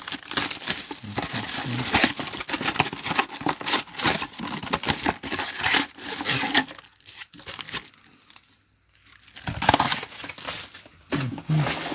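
Foil trading-card pack wrappers crinkling and tearing as packs are ripped open and handled, in quick irregular crackles, with a pause of about two seconds near the end.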